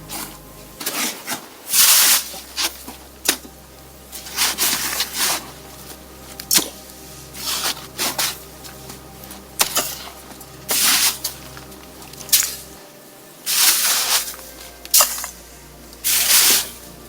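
Irregular crunching or squishing noises, about one a second, over soft background music with a steady pitched bed.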